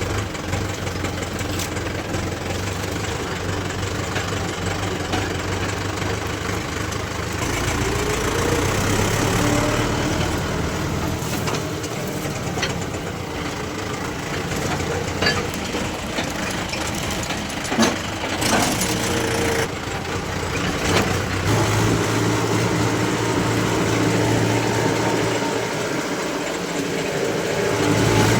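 Heavy diesel engines of a backhoe loader and tractors running steadily, with a rise in revs about eight seconds in and a few sharp knocks in the middle.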